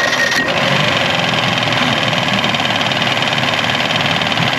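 Boat outboard motor running at a steady idle, freshly started. A thin high whine cuts out about half a second in.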